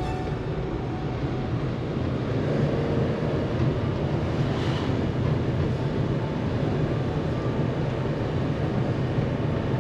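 Suzuki Carry kei truck driving along at a steady pace: a steady low engine drone with road noise.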